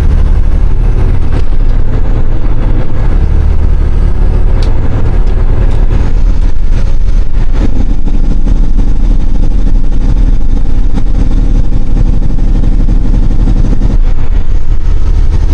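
Western Star truck's diesel engine running loud and steady under way, a deep drone whose pitch pattern changes a few times.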